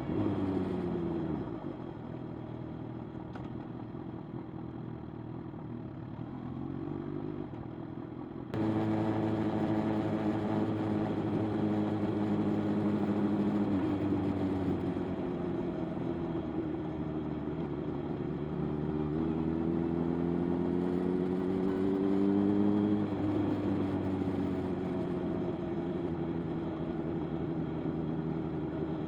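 Motorcycle engine running under way, its note climbing with the revs and dropping back at gear changes several times. About eight seconds in it becomes suddenly louder and brighter.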